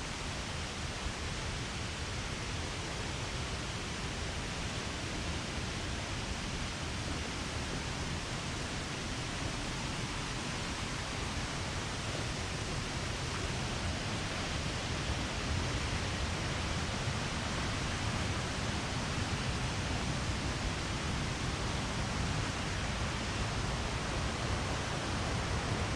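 Steady rushing of a 25-metre waterfall, growing slowly louder.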